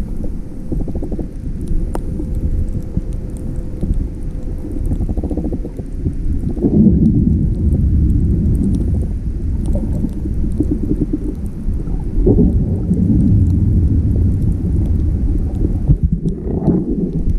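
Loud, low rumbling noise with irregular crackles, growing louder about six seconds in.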